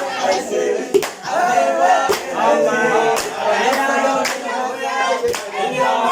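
Group of young men singing together, with hand clapping keeping a steady beat about once a second.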